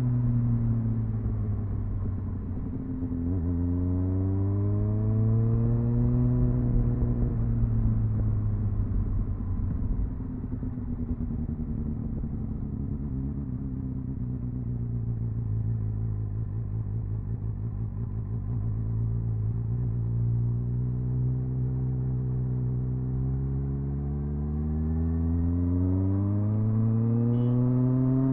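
Triumph Speed Four's 600cc inline-four engine on its stock exhaust, heard onboard while riding: revs rise about 3 to 6 seconds in, ease off and hold lower through the middle, then climb steadily over the last several seconds.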